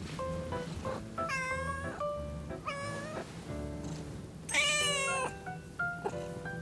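A domestic cat meowing three times, the third call the longest and loudest, over background music with plucked stepped notes.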